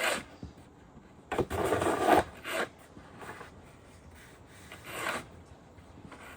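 Snow shovel scraping and scooping snow in a handful of separate strokes, the longest and loudest about a second and a half in.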